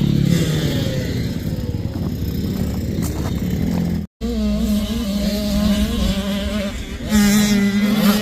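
Dirt bike engines running and revving, the pitch rising and falling with the throttle, with a brief dropout about four seconds in.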